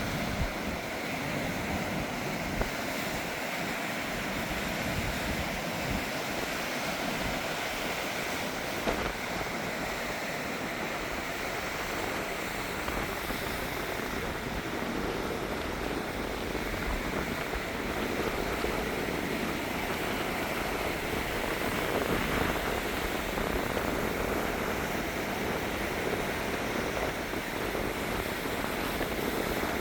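Gentle sea waves washing onto the beach, a steady wash of surf that swells a little past the middle.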